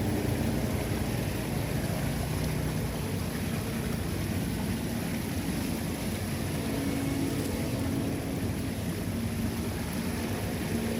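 Floodwater pouring down into an unclogged street drain or culvert, a steady low rushing rumble.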